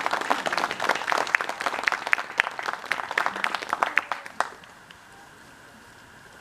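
Audience applauding, stopping fairly abruptly about four and a half seconds in.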